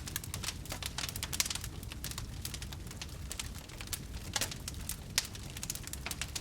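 Wood burning in a fireplace, crackling with many irregular sharp snaps and pops over a low steady rumble.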